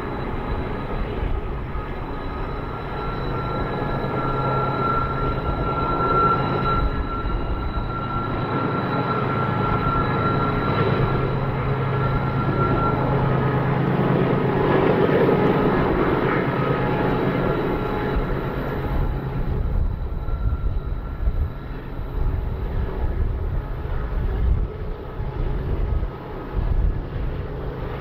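Distant freight train's diesel locomotives droning, with a steady high whine over the engine rumble, building to a peak about halfway through and then easing off.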